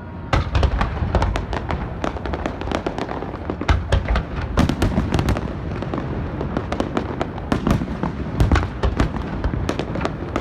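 Aerial fireworks bursting in rapid succession: a dense run of sharp bangs and crackles, several a second, with heavier booms among them. It starts about a third of a second in.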